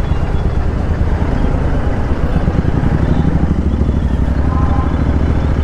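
Royal Enfield Continental GT 650's parallel-twin engine running steadily through an aftermarket Thrive exhaust, giving a loud, steady buzz.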